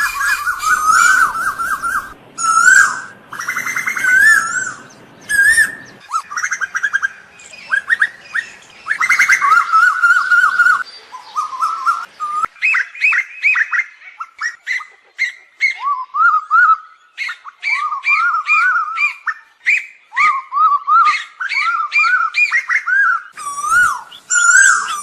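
Asian koels calling: long runs of short, wavering whistled notes, repeated with brief gaps between phrases.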